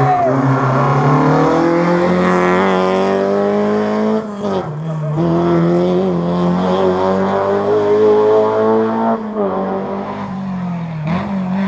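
Historic rally car's engine pulling hard, its pitch climbing steadily with two gear changes about four and nine seconds in, where the pitch drops and climbs again.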